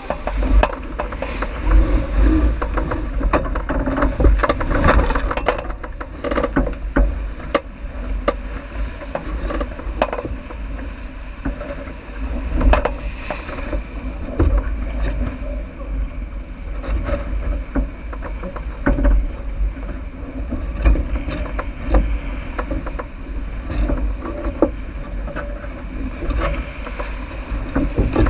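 Wind buffeting the microphone and water rushing and splashing along the hull of a J80 sailboat running downwind, with frequent short knocks from the boat.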